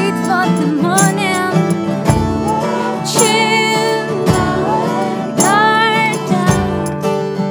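Acoustic guitar strumming chords in a steady rhythm, with a wordless melody line wavering and gliding above it.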